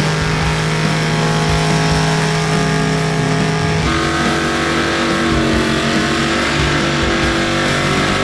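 Hot rod engine held at high, steady revs during a burnout, its pitch stepping up about four seconds in.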